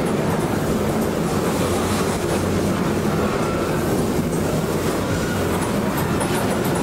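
A train running past on the rails, its wheels on the track making a steady, continuous noise.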